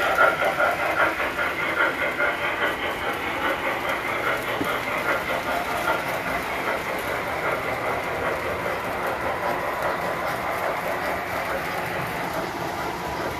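Tinplate model train running on metal track, its wheels giving a fast, busy clatter. It is loudest at the start and grows gradually fainter.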